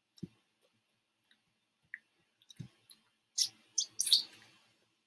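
A few scattered clicks and soft knocks: two low taps, a brief high blip, then a quick cluster of sharp high ticks near the end.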